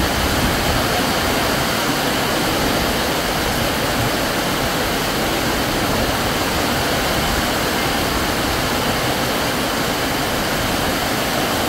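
Heavy rain falling in a steady downpour, a continuous even hiss.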